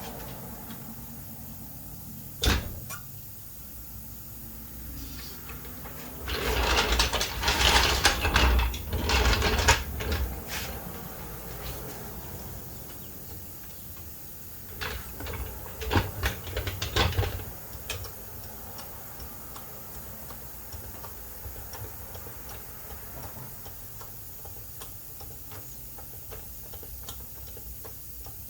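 Garage work on a truck with a jack and hand tools: a sharp metal knock, then two stretches of clanking and rattling, the first about six seconds in and lasting several seconds, the second shorter, around sixteen seconds in.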